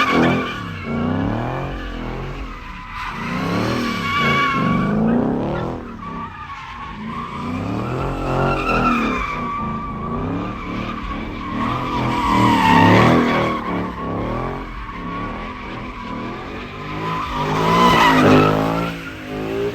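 Car engine revving hard in repeated rising and falling surges, with tires squealing steadily underneath, as in a burnout or donuts.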